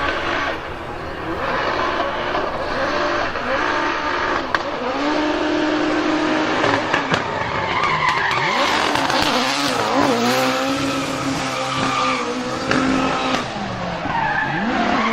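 Drift car's engine revving up and down hard with tyres screeching as it slides, the engine pitch repeatedly rising and falling.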